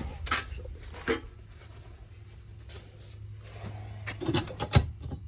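Clicks and knocks of hand tools and handling while a burnt wire on an HVAC contactor is reconnected, over a steady low hum. A quick run of knocks near the end ends in one louder knock.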